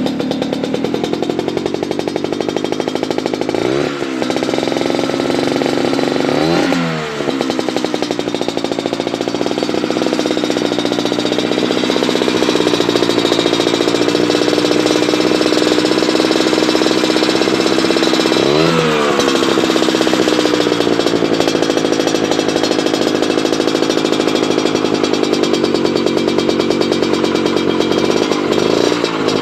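A two-stroke Vespa 150cc scooter engine running through a short right-side R1 Racing aftermarket exhaust, with a crisp, rattly note. It holds a steady fast idle and is blipped four times, each rev rising and falling quickly.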